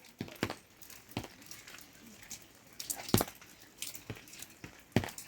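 A series of short, sharp knocks and clicks at irregular intervals, about ten in all, the loudest about three seconds in and near the end.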